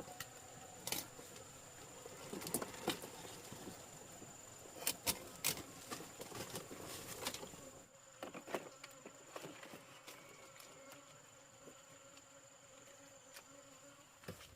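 Steady high-pitched insect buzz, with scattered sharp clicks and knocks, the loudest a few seconds in.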